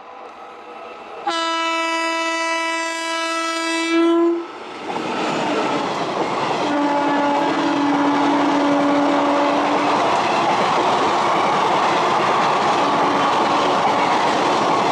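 Indian Railways WAP-4 electric locomotive sounding one long horn blast of about three seconds as it approaches, starting about a second in. The train then rushes past with a loud, steady noise of coach wheels clattering over the rails, while a lower horn note sounds again for about three seconds.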